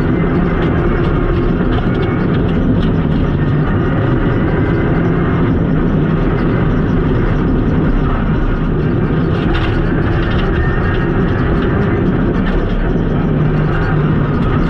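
Renault Clio Rally4's turbocharged four-cylinder engine running hard at speed on a rally stage, heard loud and steady from inside the stripped cabin.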